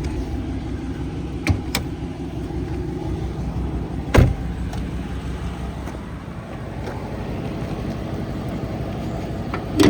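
Dodge Charger R/T's 5.7-litre Hemi V8 idling steadily, with a couple of sharp clicks and then one loud thump about four seconds in as the hood latch is released and the hood opened.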